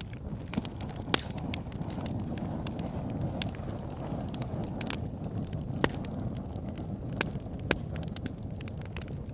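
Wood fire burning in a fireplace: a steady low rumble of flames with irregular sharp crackles and pops from the logs, a few louder snaps standing out.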